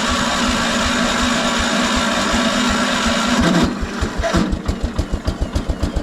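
1975 PowerKing tractor's 14 hp single-cylinder cast-iron engine being cranked by its electric starter with a steady whine, then catching about three and a half seconds in and running with an even putt of about six beats a second. This is a first start after about two years sitting, with moisture in the engine.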